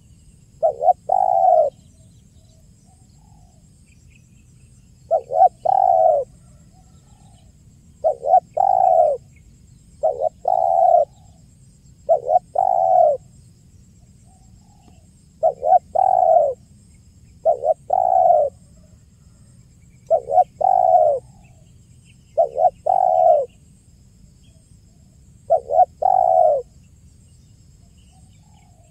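Spotted dove (tekukur) cooing: a loud, clear coo phrase of a short note followed by a longer one, repeated every two to three seconds. A faint low hum sits underneath, and there are a few faint higher chirps.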